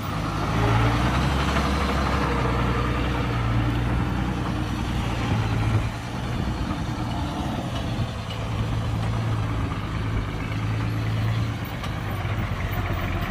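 Diesel engine of a heavy construction machine running steadily with a low, even note that slackens briefly about six seconds in and again near the end.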